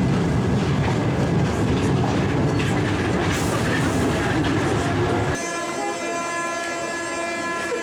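A train running, with a heavy rumble and clatter. About five seconds in, the rumble drops away abruptly and a steady, high-pitched whine with many overtones takes over.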